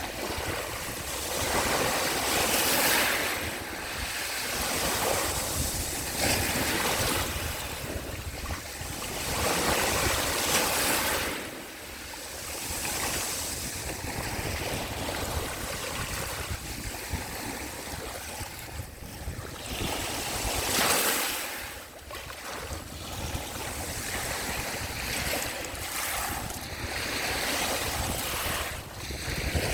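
Sea waves washing onto the shore, the surf swelling and fading every few seconds.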